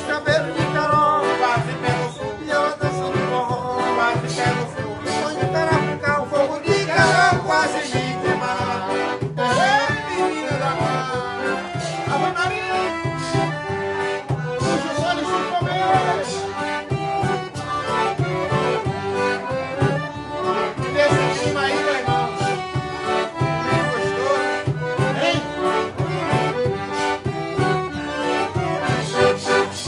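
Forró pé de serra music led by an accordion, over a steady, regular drum beat.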